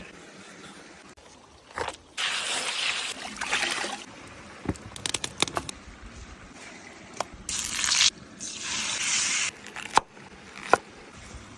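Food sizzling on a hot cooking stone in several hissing bursts of a second or two each, with a few sharp knocks of utensils or food against the stone in between.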